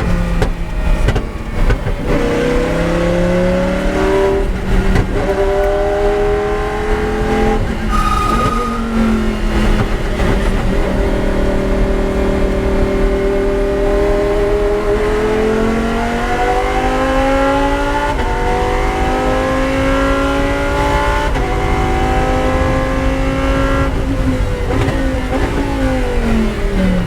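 Lamborghini Huracán race car's V10 engine under hard acceleration on track, its pitch climbing through each gear and dropping sharply at the upshifts. A long slow climb runs through the middle, and the pitch falls near the end as the car slows.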